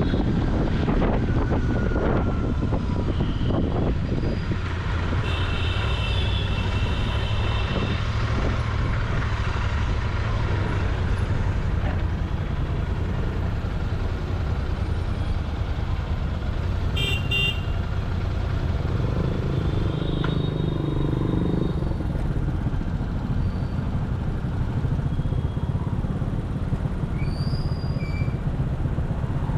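A Royal Enfield Continental GT 650's 648 cc parallel-twin exhaust runs steadily while riding in traffic. About five seconds in, a vehicle horn honks for a couple of seconds. A few short beeps follow a little past the halfway mark.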